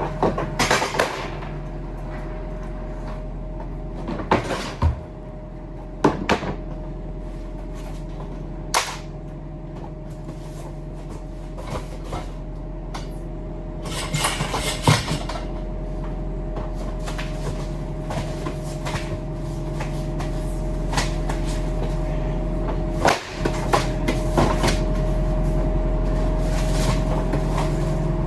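A truck's engine running with a steady drone, with sharp knocks and clatters scattered throughout.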